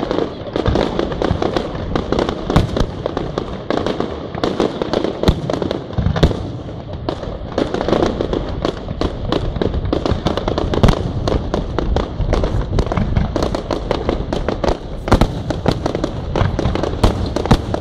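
Fireworks display in full barrage: shell bursts and crackling stars going off in rapid succession, many sharp bangs a second without a pause, over a constant rumble.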